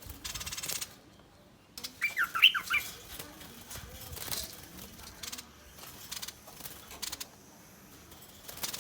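A bulbul giving a quick run of sharp scolding notes about two seconds in, the loudest sound here. Short bursts of hissy rustling, like wing flapping, come near the start, a few times in the middle and again near the end.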